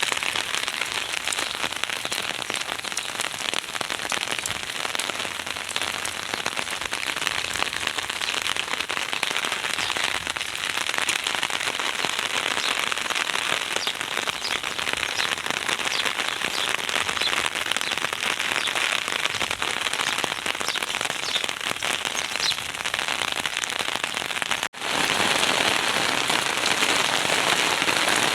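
Heavy rain falling: a dense, steady hiss full of fine pattering drops. It cuts out for an instant about 25 seconds in and comes back a little louder.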